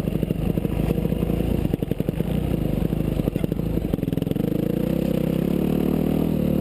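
Yamaha YZ250F four-stroke single-cylinder motocross engine running with an uneven, choppy beat, then from about four seconds a steady, slowly rising note as it pulls under throttle.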